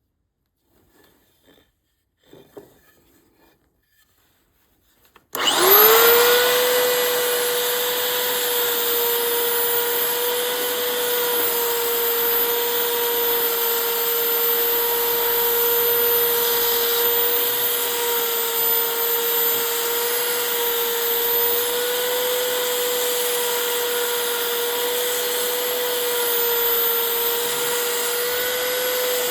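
A high-speed electric motor spins up about five seconds in and then runs steadily with a high, nearly constant whine over a hiss. Before it starts there are only faint small knocks.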